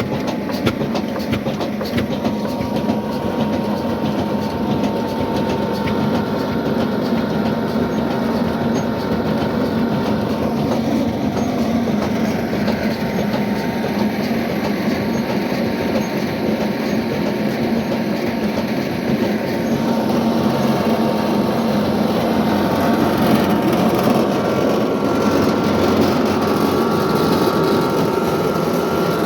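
Old stationary diesel engine running steadily with the flour mill it drives, a fast even clatter over a low hum. A thin steady whine runs through it, and a second, higher whine joins about two-thirds of the way in.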